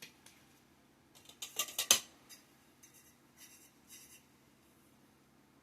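Mini greenhouse poles being pushed into the holes of the frame: a quick cluster of sharp clicks and rattles about a second and a half in, then a few lighter taps.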